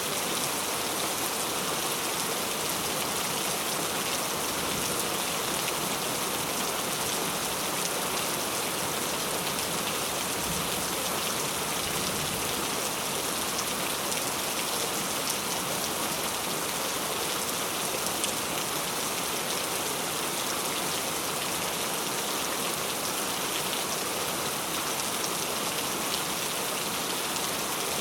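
Heavy rain falling steadily, a dense even hiss of drops hitting surfaces with no let-up.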